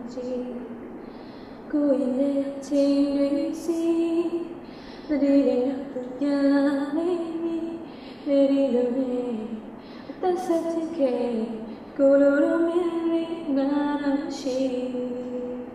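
A woman singing a slow Burmese ballad, in phrases a few seconds long.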